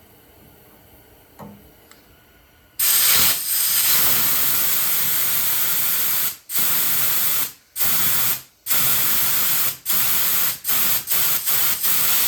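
Compressed air hissing through a blow gun, blowing fuel out of a disconnected fuel line: quiet at first, then a long continuous blast starting about three seconds in, followed by a series of shorter on-off bursts.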